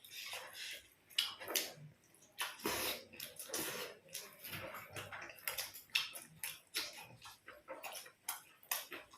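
Wet chewing and lip-smacking of people eating paratha with a curry, a quick irregular run of small mouth clicks and smacks.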